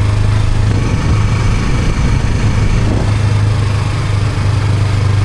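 Yamaha R25 parallel-twin motorcycle engine running steadily at idle with a low, even hum, just after being bump-started in gear.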